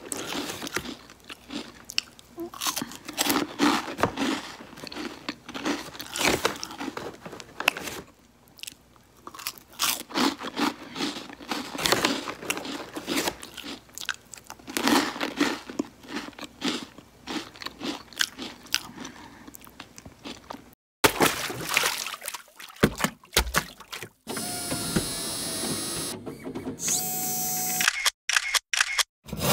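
Close-up crunching and chewing of crunchy potato fry sticks, with irregular crisp bites one after another. About two-thirds of the way through, the crunching stops and gives way to a few short clipped sounds with a steady tone.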